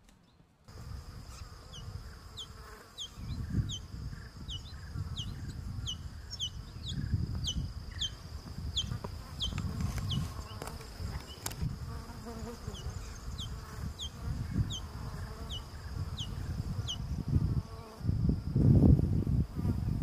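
A bird repeating short, high whistled notes that fall in pitch, about one and a half a second with a brief pause midway, over a steady high whine. Gusts of low rumble on the microphone are loudest near the end.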